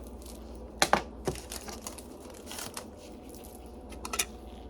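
Small handling noises of plastic test supplies: a few sharp clicks and some crinkling and scraping, with a steady hum underneath.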